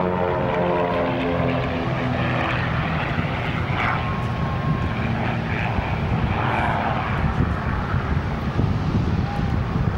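Propeller-driven Pitts Special aerobatic biplanes flying a formation display. Their engines give a steady drone, falling in pitch during the first second as they pass.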